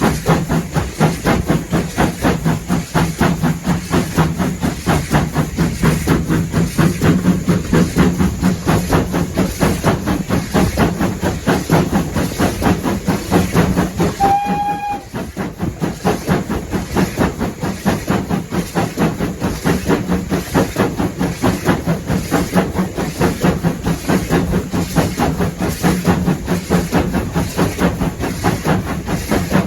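Steam locomotive working, its exhaust beating in a rapid, even rhythm. One short whistle blast sounds about halfway through.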